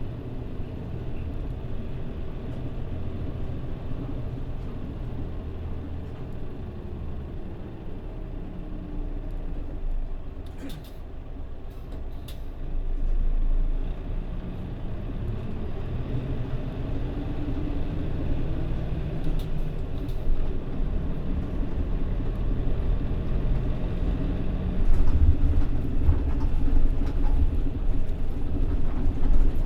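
Mitsubishi Fuso Aero Star city bus's diesel engine running while the bus drives between stops, heard from inside the bus. The engine note rises and falls, dips briefly about ten seconds in, and grows louder near the end.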